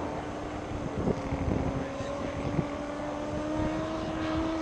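Radio-controlled scale model airplane engine droning in flight, its pitch creeping slightly higher and growing louder toward the end. Gusty wind rumbles on the microphone, with a few brief thumps.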